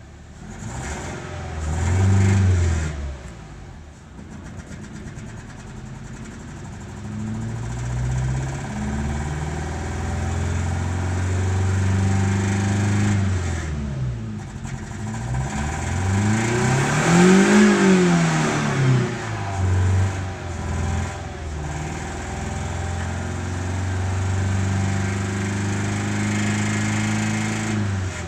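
A 2010 Toyota Vios's four-cylinder petrol engine running, just after a fuel pump replacement meant to cure hard starting. Its speed does not hold steady: a short rev about two seconds in, a larger rise and fall in the middle, then steadier running. The idle is varying, which the mechanic is watching as a possible further fault.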